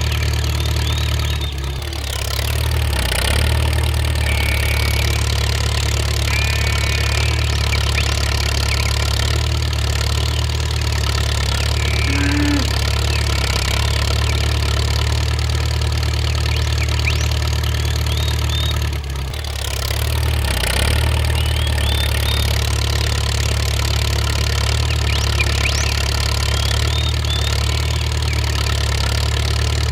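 An engine running steadily at idle with a low, even hum. The sound briefly drops away twice, about two seconds in and again about two-thirds of the way through.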